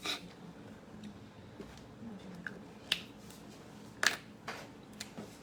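Pen strokes on paper: a handful of short, separate scratches and clicks, the loudest about four seconds in.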